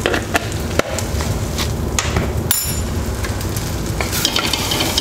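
Pork pieces frying in spiced oil in a clay pot, sizzling steadily, with several sharp knocks of a wooden spatula against the pot as they are stirred.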